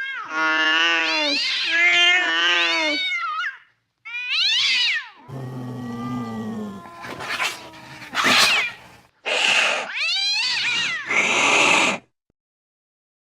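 Angry cat yowling: a long wavering caterwaul, then shorter rising-and-falling howls mixed with hisses, in a threatening display. It stops about a second before the end.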